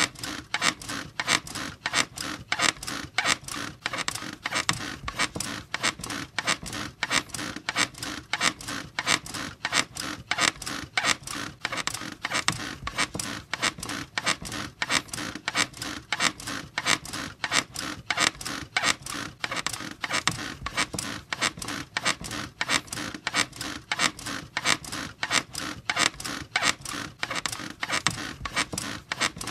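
A squeaky bed creaking over and over in a fast, even rhythm, squeak after squeak.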